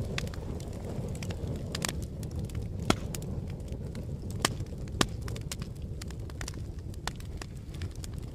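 Wood fire burning with a steady low roar and frequent crackles, with three louder pops about three, four and a half, and five seconds in.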